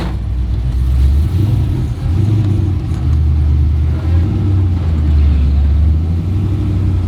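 Burnout pickup truck's engine running loud as it is driven, with a low rumble whose note shifts up and down a few times with the throttle. It is heard from inside the cab.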